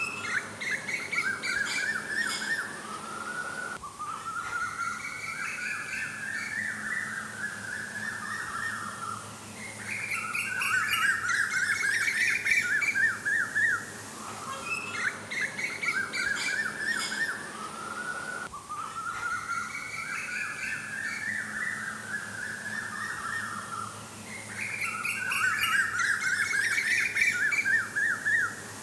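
Birds chirping and twittering in fast runs of short, quick chirps, in phrases of a few seconds with brief lulls between them.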